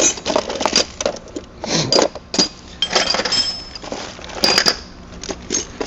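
Loose metal hand tools clinking and clattering as a toolbox is rummaged through for a socket extension, with irregular sharp clinks that ring briefly.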